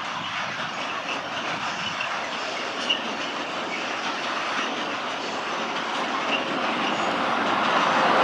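Freight train of tank wagons rolling through a rail yard: a steady rumble of wheels on rails with brief high wheel squeals, growing louder near the end.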